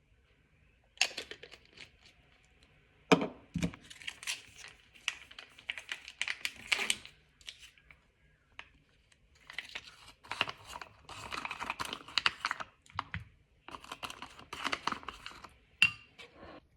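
Packaging crinkling and being torn, in three bursts of crackling with sharp clicks and short quiet gaps between them.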